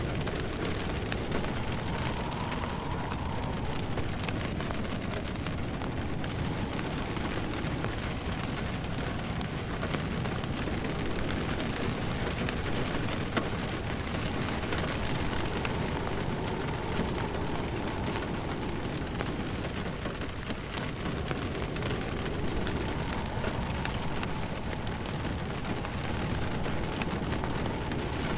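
Steady rain pattering, mixed with a wood fire crackling in a fireplace.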